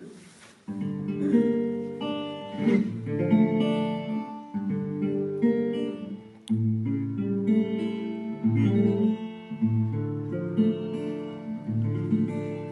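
Instrumental music on acoustic guitar, chords plucked and strummed: the intro to a song, starting about a second in.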